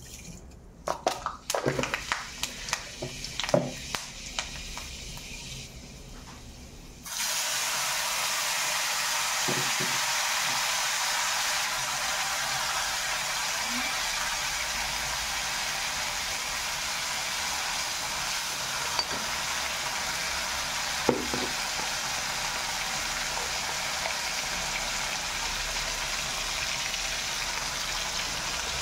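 A few light clicks and taps, then about seven seconds in a loud sizzle starts suddenly as chopped onion and tomato hit hot oil in a karahi, and the frying hiss holds steady with an occasional faint clink.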